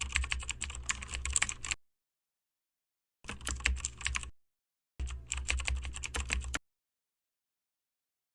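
Computer keyboard typing in three short bursts of rapid key clicks, separated by dead silence.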